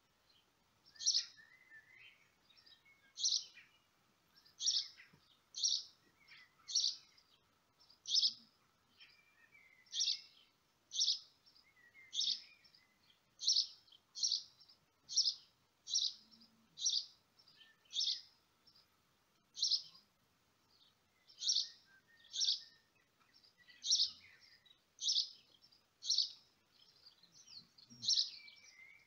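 A small bird chirping over and over: short, high chirps about one a second, slightly uneven in spacing.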